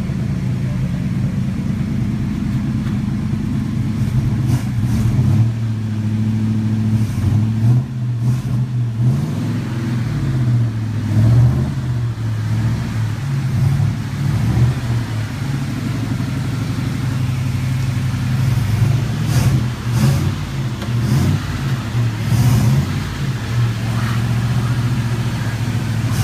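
1964 Oldsmobile Starfire's V8 running after sitting for thirty years, the engine note rising and falling several times in the first half as the revs are varied, then settling to a steadier run.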